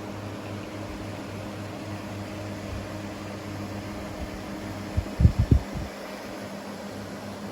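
A small USB desk fan running steadily, a low hum under an even whir of air. About five seconds in, a quick run of three or four low thumps.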